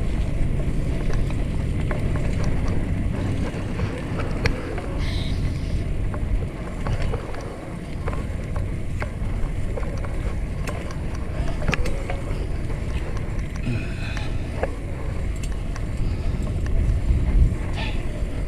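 Wind rushing over an action camera's microphone and road rumble from a fixed-gear bicycle being ridden, with scattered light clicks and rattles.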